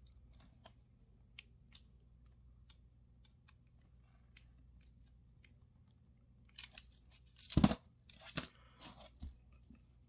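Small metal clicks and scrapes of a caseback tool working on the Casio MDV106's screw-down caseback. Faint scattered ticks, then a busy cluster of clicks and scrapes from about six and a half seconds in, with one sharp knock in the middle of it.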